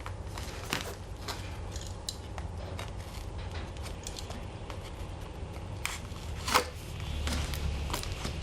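Packaging and parts being handled while a fire pit stand is unboxed: scattered light clicks and taps, with a sharper knock about six and a half seconds in, over a low steady hum.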